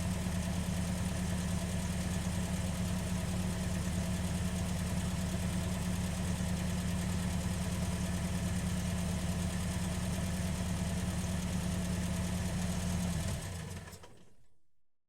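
Ford Fiesta engine idling steadily with an even hum, then stopping near the end and dying away to silence.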